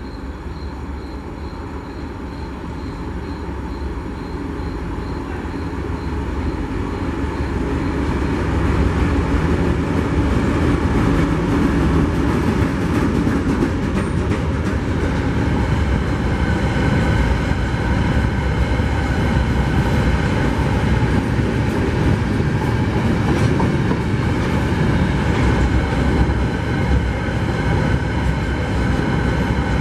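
An empty coal freight train hauled by a CRRC CDD5a1 diesel-electric locomotive passing. The sound builds over the first nine seconds or so, then holds steady as the empty wagons roll by, their wheels clattering on the rail, with high steady squealing tones from the wheels in the second half.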